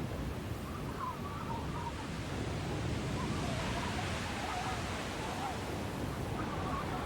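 Snowstorm wind, a steady dense rushing noise, with faint wavering whistling tones drifting in and out.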